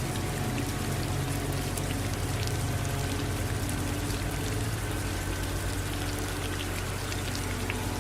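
Steady rain falling, with running water mixed in. Faint steady low tones hum underneath.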